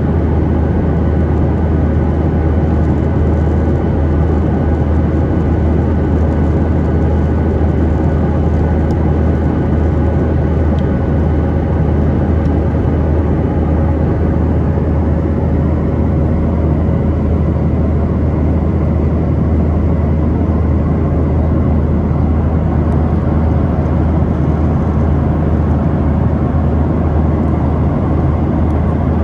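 Steady cabin noise of a Boeing 737-800 airliner in flight, a strong low drone from its CFM56-7B engines and the airflow, with a few faint steady hum tones over it and no change in level.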